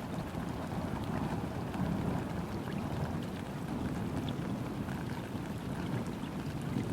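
Steady rain falling onto a river, a dense patter of drops on the water with scattered small drip ticks, over a low, even rumble.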